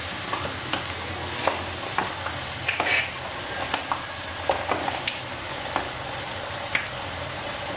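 Chopped vegetables and sauces sizzling in hot oil in a frying pan, a steady hiss with scattered small pops and ticks of spattering.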